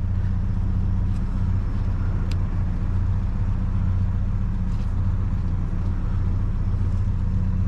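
Vehicle engine idling: a steady low hum. A faint click comes about two seconds in.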